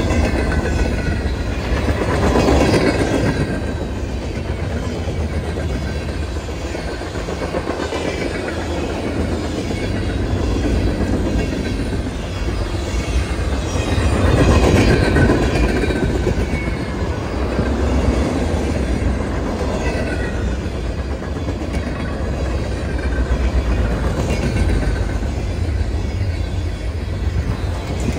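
Freight cars of a manifest freight train rolling past at speed: a steady rumble of steel wheels on the rails that swells and eases every several seconds as the cars go by, with thin high ringing tones from the wheels coming and going.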